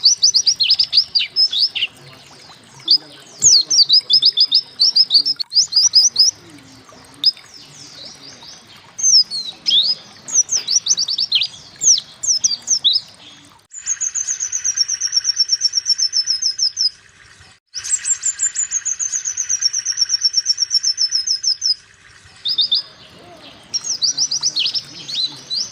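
White-eye (pleci) song: bursts of quick, high downslurred chirps, with two long rapid trills of evenly repeated notes, falling slightly in pitch, in the middle.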